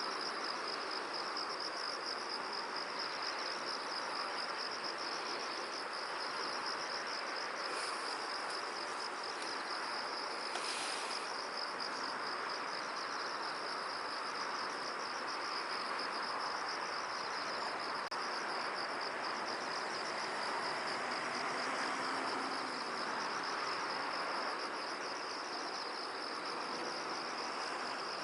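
A steady, high-pitched pulsing trill of insects chirping continuously, over a soft even hiss of wind in a field.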